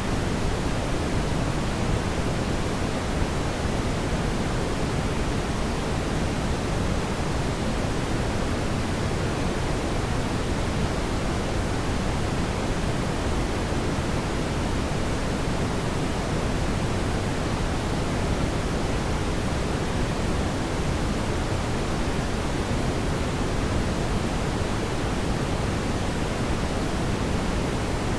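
Fireplace fire giving a steady, even rushing noise, heaviest in the low end, with no distinct crackles or pops standing out.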